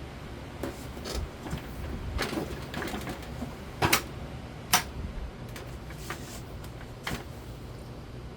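A series of irregular clicks and knocks over a low steady hum, the two sharpest about four and five seconds in.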